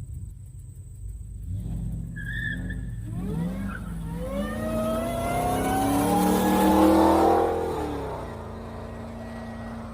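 A car engine revving hard as the car accelerates away, rising steadily in pitch and loudest about six to seven seconds in, then fading. A brief high chirp comes about two seconds in, and another engine idles steadily under it all.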